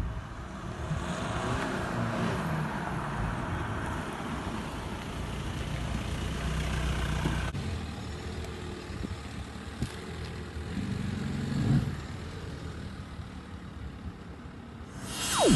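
A 2015 Volkswagen Golf GTD's 2.0-litre turbodiesel running, with a steady noisy drone; its pitch rises and falls briefly a couple of times.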